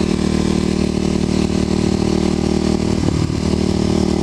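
Kawasaki KLX250SF single-cylinder four-stroke engine, bored out to about 330 cc, running at a steady cruise with an even engine note under rushing wind and road noise.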